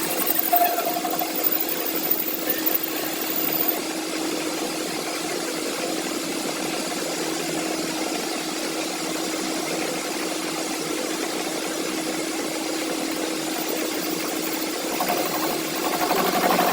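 An engine running steadily with a constant hum, its broken camshaft gear repaired. A few sharper knocks come in the first few seconds, and the sound grows louder near the end.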